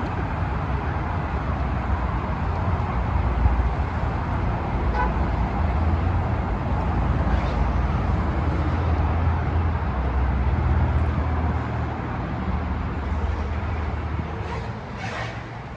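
Steady city road traffic with a deep low rumble, easing off near the end.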